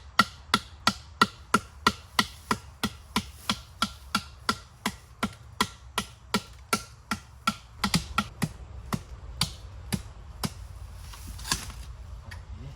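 Repeated sharp chopping strikes into a bamboo stalk, cutting off a section for a cup. The strikes come about three a second, slow down after about eight seconds and stop a couple of seconds before the end.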